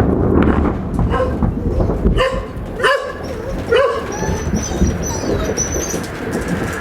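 A dog barking several times in short calls during the first four seconds, over a continuous low rumble. Faint high chirps follow in the second half.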